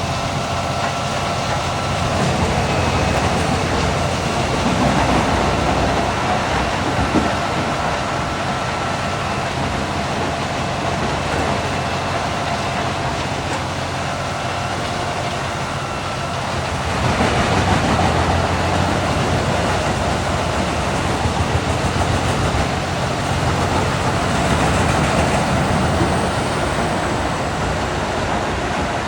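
Large wood chipper of about 800 horsepower running, a steady machine drone with faint whining tones. It swells louder three times: about two seconds in, just past halfway, and near the end.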